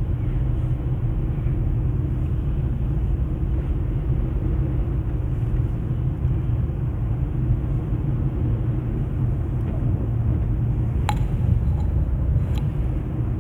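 Steady low rumble of a car heard from inside its cabin, with one sharp click about eleven seconds in.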